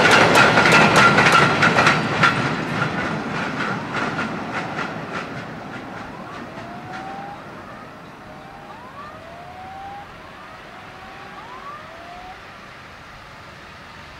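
Freight train of cement powder wagons passing, the wheels clicking fast over the rail joints with a steady high squeal, fading away over the first six seconds or so as the train recedes. Several faint short rising whistles follow in the quiet.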